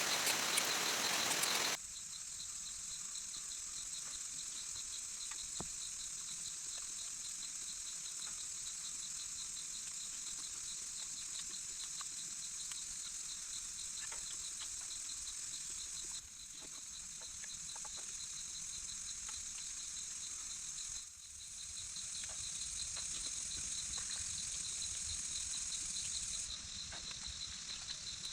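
Insects trilling steadily, a high rapidly pulsing call, over a soft hiss with scattered faint ticks like drips. A louder hiss fills the first couple of seconds, and the background changes abruptly a few times.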